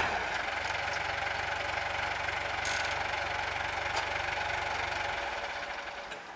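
A large engine of heavy machinery running steadily, fading away near the end.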